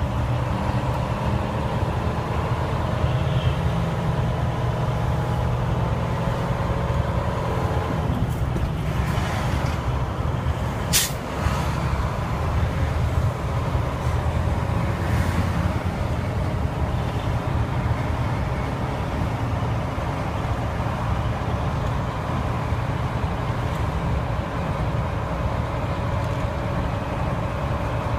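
Vehicle engine running steadily through a dual exhaust, a deep, even exhaust note. There is one sharp click about eleven seconds in.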